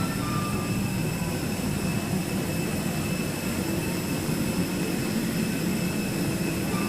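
Cabin noise of a Boeing 737-800 on the ground after landing, its CFM56 jet engines at idle: a steady low rumble with several steady high whine tones above it.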